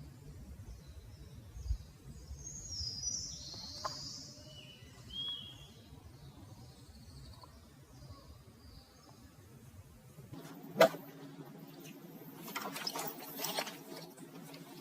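Wild forest birds calling, with short high chirps over faint outdoor background. About two-thirds of the way in the background changes abruptly, followed by a sharp click and then rustling handling noises.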